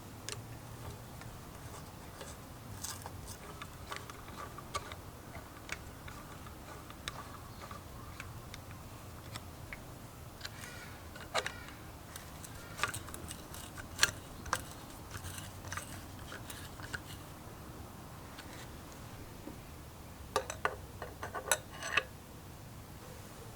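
Scattered light clicks and taps of small metal carburetor parts and hand tools being handled on a workbench, with a quick cluster of sharper clicks about twenty seconds in, over a faint low hum.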